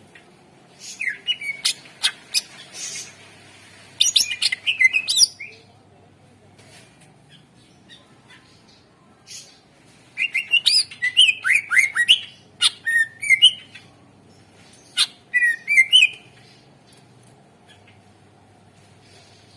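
A green leafbird (cucak ijo) in full song. It sings in four bursts of quick chirps, whistled up-and-down glides and sharp clicking notes, with pauses of a few seconds between them.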